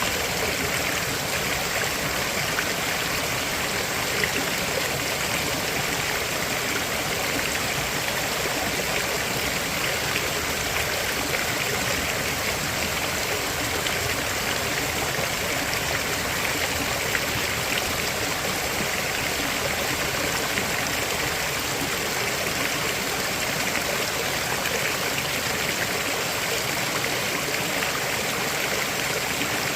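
River water flowing and splashing over stones, a steady rushing with no breaks.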